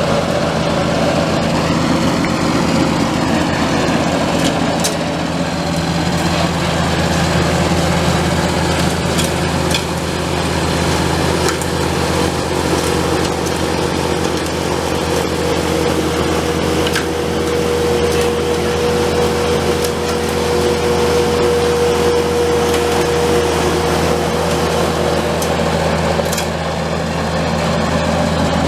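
Small Kubota compact tractor running steadily while driving a snowblower attachment, clearing snow. A higher steady whine comes in about halfway through and fades near the end.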